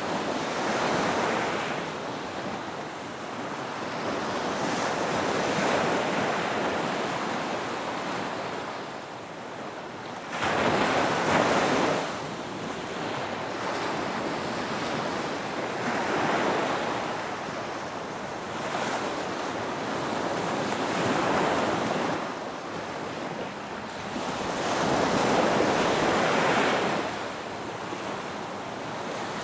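Ocean waves breaking on a beach: a steady wash of surf that swells and fades every few seconds, with the strongest surge about a third of the way in.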